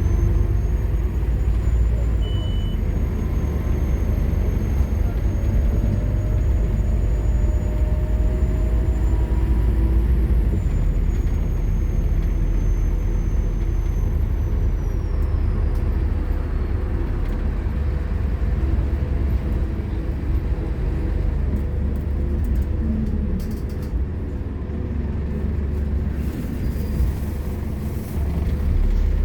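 Scania K230UB Omnilink bus's five-cylinder diesel engine running hard as the bus is driven quickly: a steady deep rumble with faint high whines that slowly rise and fall.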